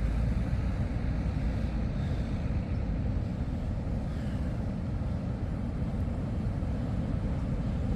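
Steady low rumble of ocean surf breaking in big sets.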